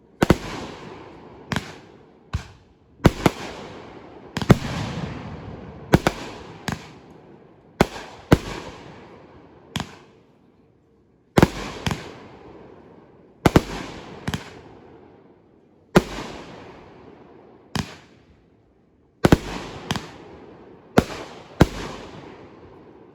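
Fireworks going off: about twenty sharp bangs at uneven intervals, each followed by a fading rumble and crackle.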